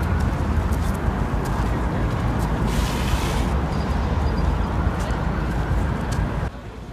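City street noise: traffic running by with a heavy low rumble and some voices, which drops off sharply near the end.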